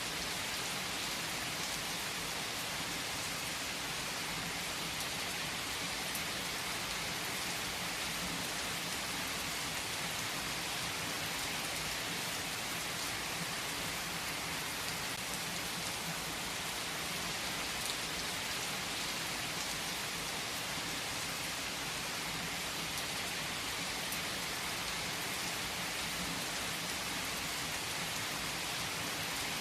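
Steady rain falling on a surface, an even hiss that holds its level throughout, with an occasional faint click.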